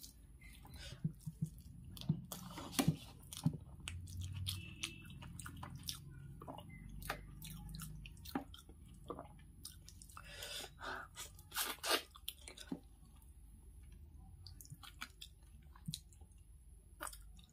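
Person chewing a mouthful of rice and fried fish, with irregular wet clicks and small crunches of the mouth and of fingers working the rice on a steel plate.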